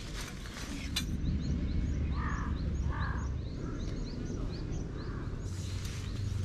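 Birds calling: a quick run of small high chirps, with two louder calls about two and three seconds in, over a low steady rumble.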